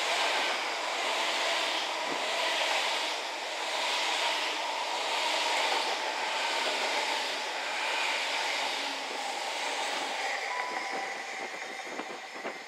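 Great Western Railway Intercity Express Train running past close by, a steady rush of wheel and running noise that swells slightly every couple of seconds and eases off near the end.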